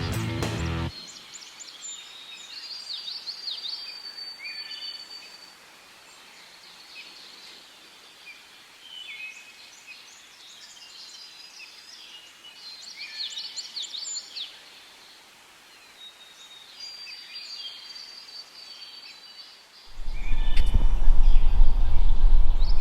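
Several songbirds singing, with many short high chirps, trills and whistled notes over a quiet background. Background music cuts off about a second in. Near the end a loud, low rumbling noise takes over.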